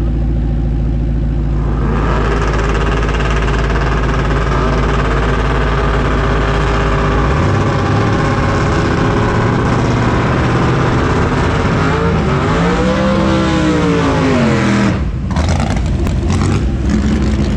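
Drag-racing car engines: a steady idle, then from about two seconds in a loud run at high revs. Between about twelve and fifteen seconds the engine note climbs and falls, then cuts off abruptly, followed by sharp crackles.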